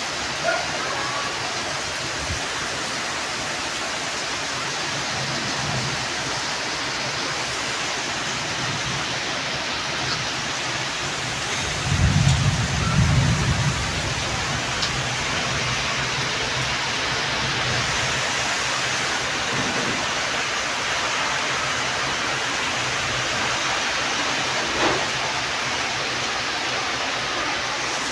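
Torrential rain pouring steadily: a dense, even hiss. About twelve seconds in comes a brief, louder low rumble.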